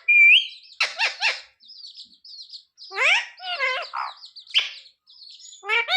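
Pet parrot calling in a series of short squawks and gliding whistles, some rising in pitch, with faint high chirps between the calls.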